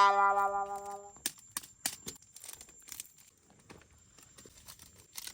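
A loud, steady musical note held for about a second, then stopping; after it, quieter scattered clicks and rustling.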